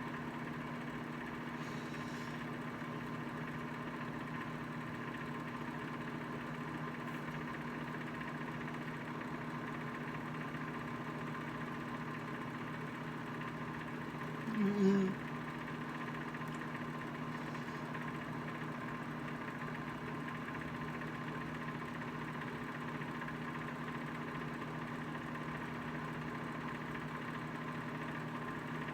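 Microwave oven running while it heats a bowl of soup: a steady hum, with one short, louder pitched sound about halfway through.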